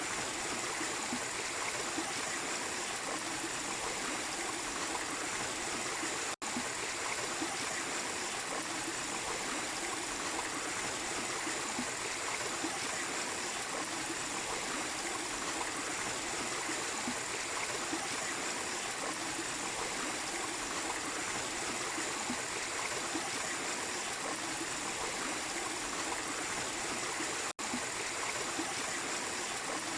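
Small waterfall splashing in a steady, even rush of water. The sound cuts out for an instant twice, about six seconds in and near the end.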